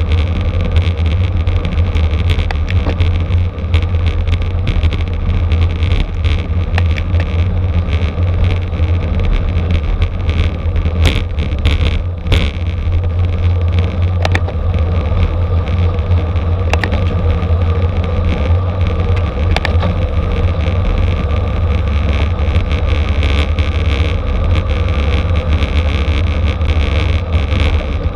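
Wind buffeting the microphone in a steady heavy rumble, with road noise and scattered sharp clicks and ticks over it.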